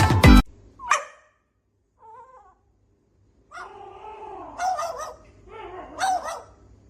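A pet animal whining and crying in a run of wavering, pitched calls, the loudest two about a second and a half apart, after a short sharp call near the start.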